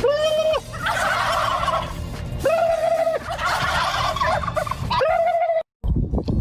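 Animals calling. Three held, pitched calls come about two and a half seconds apart, with rapid rattling calls between them. The sound cuts off abruptly near the end.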